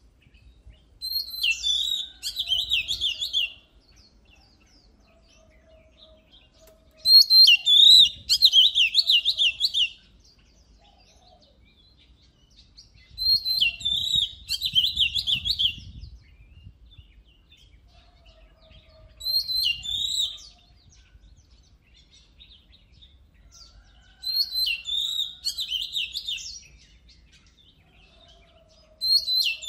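Oriental magpie-robin singing loud phrases of rapid, high-pitched notes, each lasting two to three seconds, repeated every five or six seconds with short pauses in between.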